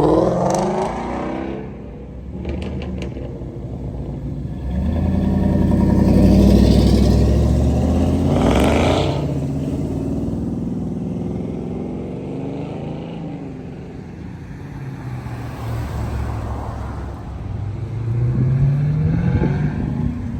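Car engines running and revving, the pitch rising near the start and again near the end, loudest a few seconds in.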